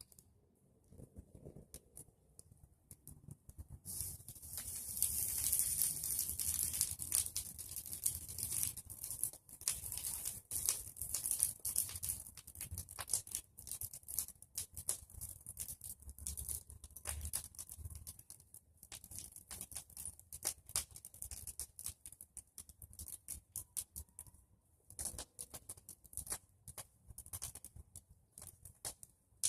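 Bonfire of pruned tree branches crackling and popping, turning to a dense hissing crackle about four seconds in, then thinning to scattered pops.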